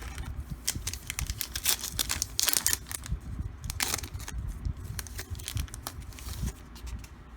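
A trading card pack wrapper being torn open and crinkled by hand: a run of sharp crackles with a longer rip about two and a half seconds in, then lighter rustling.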